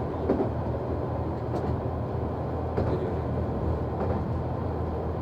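Noto Railway NT100 diesel railcar running along the line: a steady engine drone with faint regular clacks, about one a second, of wheels over rail joints.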